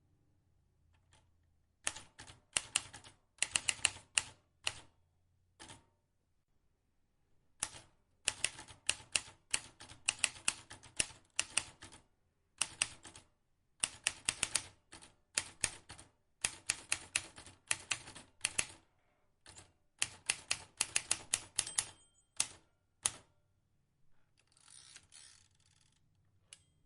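Vintage manual typewriter being typed on: quick runs of key strikes with short pauses between words and lines. Near the end there is a softer, longer noisy sound without sharp clicks.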